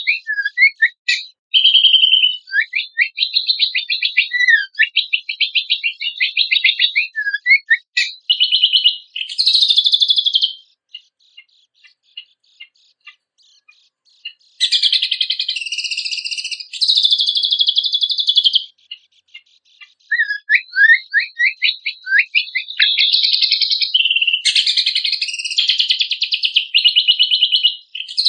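Cucak kombok (kecial kombok) songbird singing loud, varied contest song. Long bursts of rapid high trills mix with short falling whistled notes, with a gap of a few seconds near the middle.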